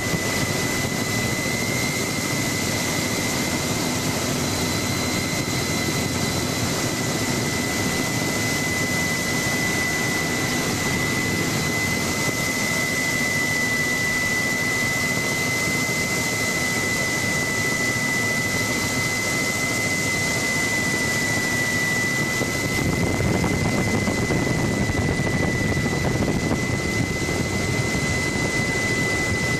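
Helicopter in flight, heard from on board: a steady rush of engine and rotor noise with a high, constant turbine whine. The low rumble grows a little louder about 23 seconds in.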